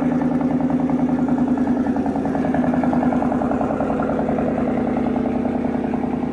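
Shelby GT500 Mustang's supercharged V8 idling through a custom catless exhaust, a loud, steady, pulsing burble.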